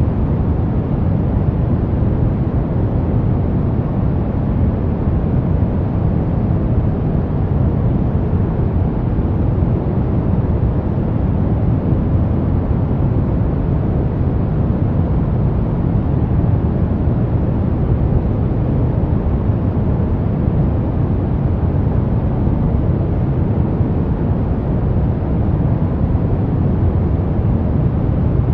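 Brown noise: a steady, unchanging rumbling hiss, heaviest in the low end and falling away toward the highs.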